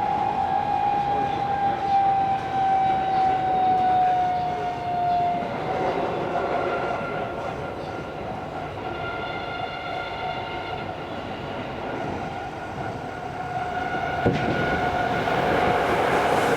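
Tokyo Metro Series 16000 subway car heard from inside while running, with its VVVF inverter and traction motor whine over the rumble of the wheels on the rails. The main whine falls slowly in pitch over the first five seconds as the train slows. Then several steady tones take over, and there is a single knock near the end.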